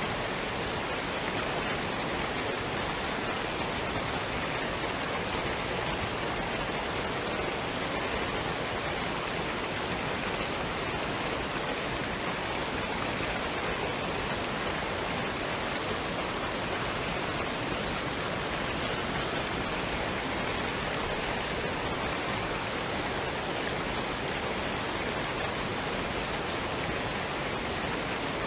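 Waterfall and stream water rushing in a steady, even roar of noise.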